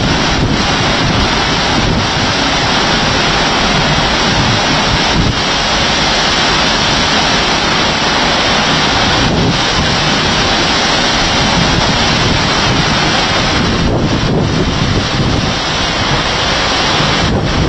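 Heavy thunderstorm downpour with strong wind: a loud, steady rush of rain noise, with gusts buffeting the microphone.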